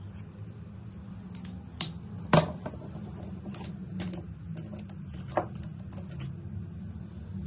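Sharp clicks and taps from handling Touch Twin alcohol markers, a few louder ones among many small ticks, with the loudest about two and a half seconds in, over a steady low hum.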